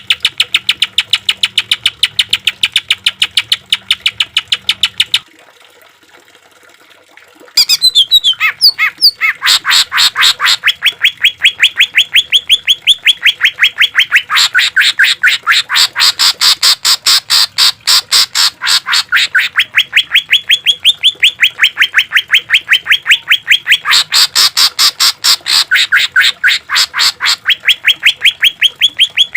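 Greater green leafbird (cucak ijo) singing rapid-fire runs of repeated sharp notes, the 'tembakan' machine-gun style. After a pause of about two seconds in the first third, the notes resume faster, about seven a second, shifting between a higher and a lower pitch every few seconds.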